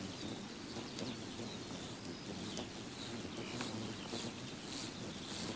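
Outdoor nature ambience of insects chirping in short, high, evenly repeated bursts about twice a second, over a steady background with a few sharp clicks and faint bird calls.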